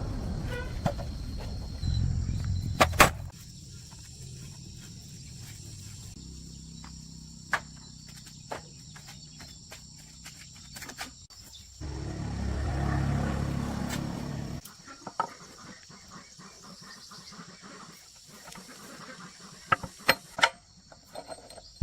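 Insects trilling steadily in the background, with scattered sharp clicks and knocks and two stretches of low rumble.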